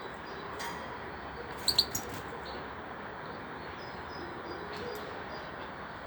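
Female European goldfinch of the parva race chirping: a quick cluster of three or four short, high chirps just under two seconds in, then a few faint high notes later, over a steady background hiss.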